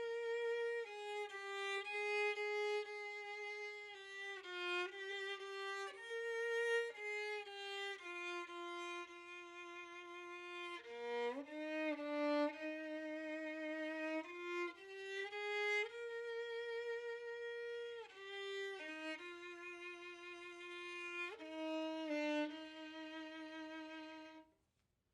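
Background music: a solo violin playing a slow melody of held notes with vibrato, ending abruptly near the end.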